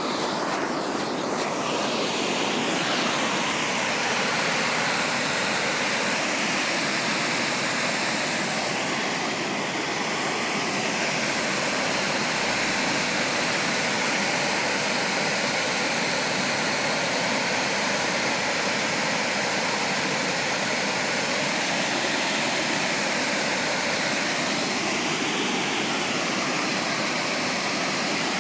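Water pouring steadily over a small millpond waterfall, a constant even rushing with no break.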